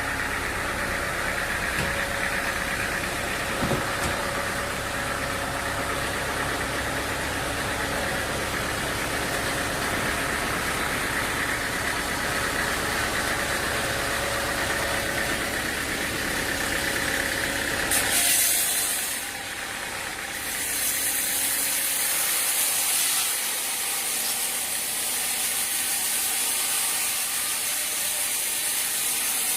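Sawmill machinery running steadily with an engine-like drone. About eighteen seconds in, the sound changes abruptly to a high, hissing saw sound as a blade runs through wood.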